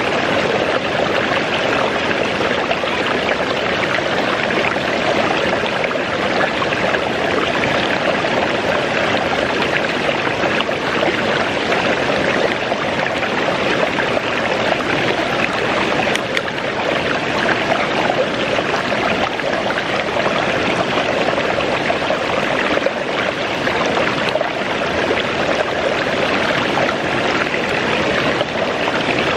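Waterfall running steadily: an unbroken rush of falling water.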